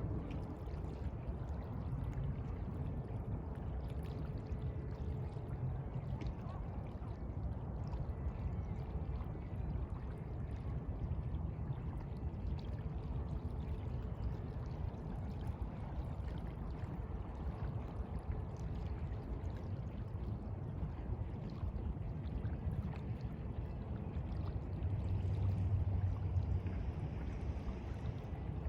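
Sea water washing and lapping steadily, with a louder surge about 25 seconds in.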